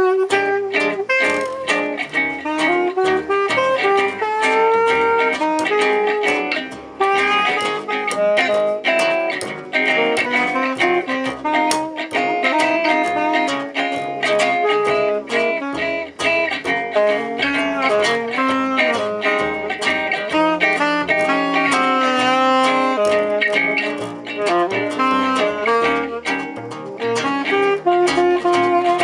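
Live jazz manouche band playing a tune, with guitar and a lead melody line over a steady beat.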